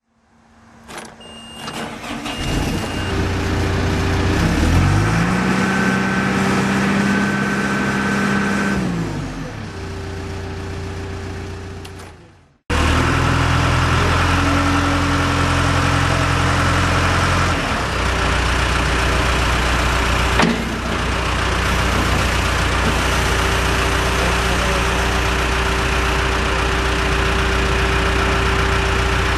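John Deere 310G backhoe loader's diesel engine starting and running. Its speed rises and falls once a few seconds in. After an abrupt cut it runs steadily, settling to a lower, even speed partway through.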